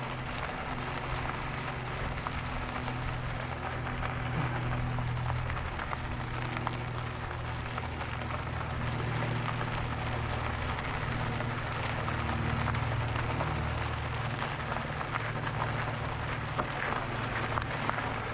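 E-bike riding along a trail: steady rolling noise with a fine crackle from the tyres, under a low, even hum.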